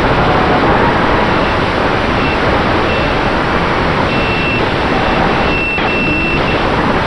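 FPV racing quadcopter's Dragonfly Hurricane 2207 2500KV brushless motors spinning Dalprop T5046C props, with its motor whine rising and falling in pitch as the throttle changes, under heavy wind rush on the onboard microphone. A thin, high steady tone comes and goes in the second half.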